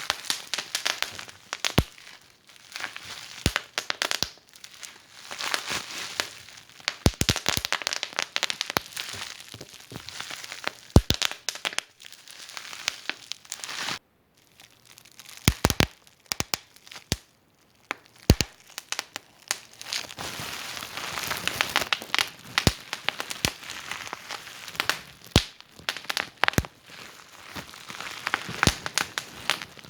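Wood fire in a fireplace crackling, with irregular sharp pops and snaps over a soft hiss. The sound drops out briefly about halfway through.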